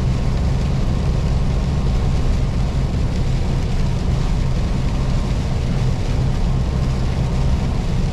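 Semi-truck's diesel engine and road noise while driving on the highway: a steady low drone.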